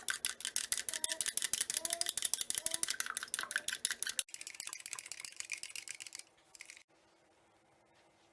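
Rapid, rhythmic kitchen utensil strokes, about ten a second for roughly four seconds, then a shorter stretch of hissy scraping that stops suddenly.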